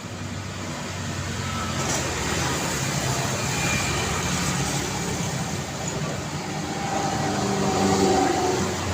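Road traffic: a continuous wash of passing cars and heavier vehicles, engines and tyres together, swelling louder as a vehicle passes close about eight seconds in.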